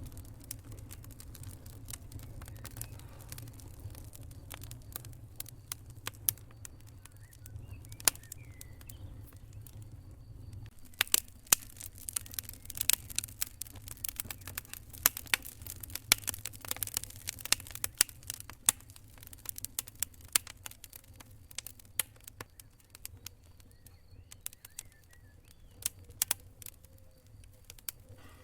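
Wood campfire crackling, with irregular sharp pops that thicken into a dense run of loud snaps for several seconds in the middle. A low rumble of the fire sits under the first third and then drops away.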